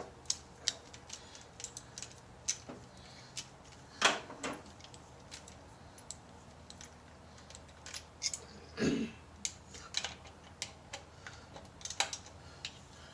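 Scattered light metallic clicks and taps from tools and parts being handled, with a louder clank about four seconds in and a short scrape around nine seconds.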